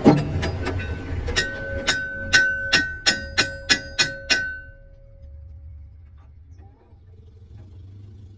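Hammer blows on a steel part, about a dozen strikes over four seconds that come faster as they go, each ringing out with a clear metallic tone that dies away after the last blow. A low steady hum runs underneath.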